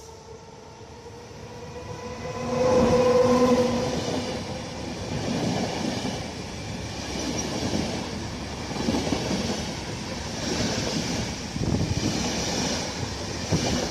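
Electric passenger train passing close: a rising whine peaks as the locomotive goes by about three seconds in, then the coaches run past with a rhythmic clatter of wheels over the rails.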